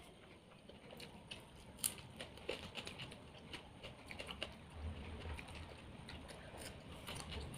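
Faint eating sounds: chewing and small wet mouth clicks as pieces of fried fish are picked off a plate with the fingers and eaten. The sharpest click comes about two seconds in.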